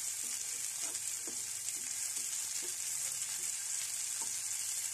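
Garlic and crushed green chilli sizzling steadily in melted butter in a nonstick frying pan, with a spoon stirring through it and a few faint knocks against the pan: the chilli is being lightly sautéed.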